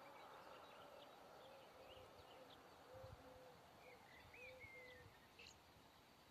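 Near silence with faint bird calls: a short low note repeated over and over, and a few higher chirps about two-thirds of the way through, with a few soft low bumps.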